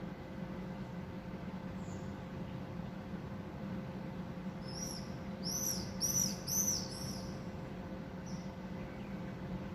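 A small bird gives a quick run of about five high, arched chirps around the middle, over a steady low background noise with a faint hum.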